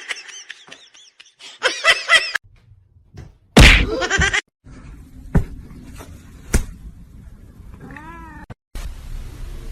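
Short, quickly rising and falling animal calls, with a loud knock about three and a half seconds in and two sharp clicks after it.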